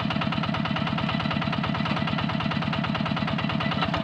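A new two-wheel hand tractor's engine running steadily with a rapid, even beat as it pulls a plough.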